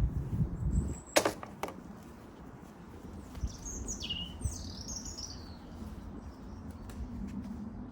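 A small bird chirping a few short, high notes about halfway through, after two sharp clicks a little over a second in and a low rumble at the start.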